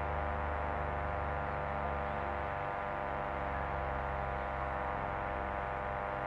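Steady, buzzy hum with many overtones and a light hiss, unchanging throughout.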